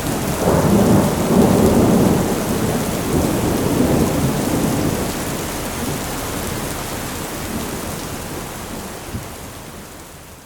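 Heavy rain with rolling thunder, the rumble loudest in the first two seconds and then dying away while the rain goes on. Near the end the whole storm fades out.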